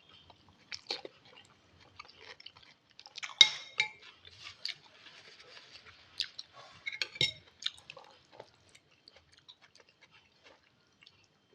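Close-miked chewing of instant chicken-broth noodle soup: wet mouth clicks and smacks at irregular intervals, with a louder, sharper sound about three and a half seconds in and another near seven seconds.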